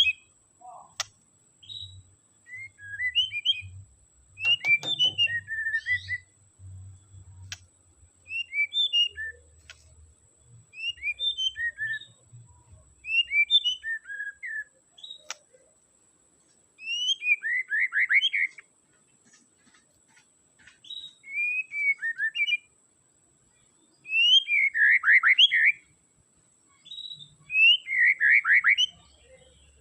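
White-rumped shama (murai batu) singing: short phrases of clear whistled notes every couple of seconds. From about halfway on, several phrases end in loud, rapid trills.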